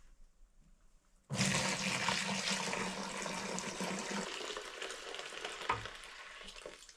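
Maple sap being poured from a bucket into a container, a steady splashing rush of liquid. It starts abruptly about a second in and slowly tapers off, with a soft low thump near the end.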